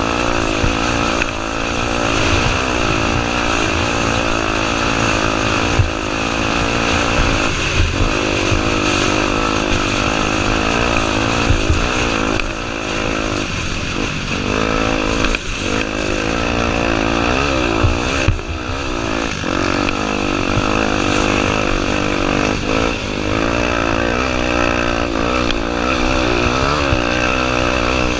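Honda Tornado 250's single-cylinder four-stroke engine running hard, its revs rising and falling again and again with the throttle. A few sharp knocks are heard along the way.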